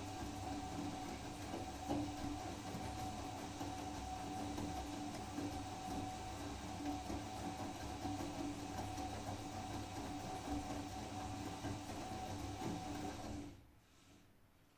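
Blomberg WAG Vario P washing machine running with a steady mechanical hum and a constant whine. It cuts off suddenly near the end.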